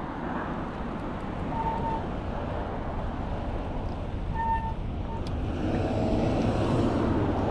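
Street traffic heard from a moving e-bike, with a steady rush of road noise. A motor vehicle grows louder near the end as it approaches.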